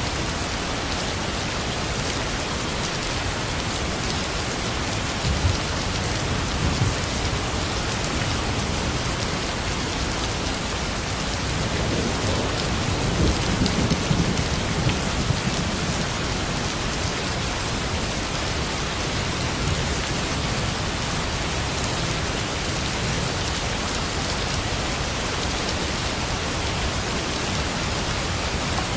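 Steady rain falling on a surface, an even continuous hiss. A low rumble swells about halfway through and fades again.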